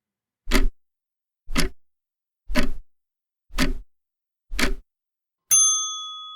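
Countdown timer sound effect: five clock ticks about one a second, then a bell ding that rings on and slowly fades, marking that time to answer is up.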